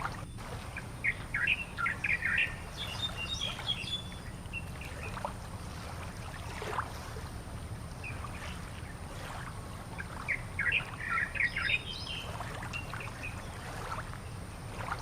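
A bird singing twice, a short burst of quick chirps each time, the two bursts about nine seconds apart, over a steady low background rumble.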